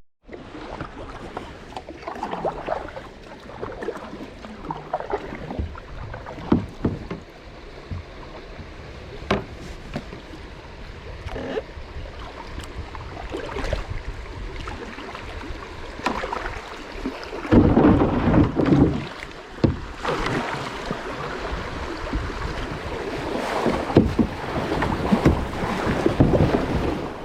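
Paddle strokes splashing the water around a Wilderness Systems Tarpon 105 kayak, with knocks and wind on the microphone. The splashing is heaviest about two-thirds of the way in.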